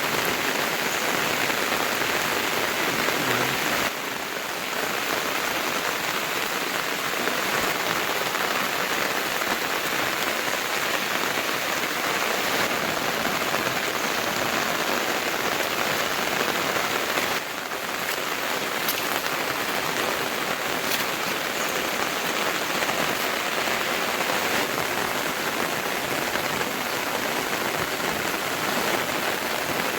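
Steady rain falling, an even hiss with no let-up, dipping briefly twice.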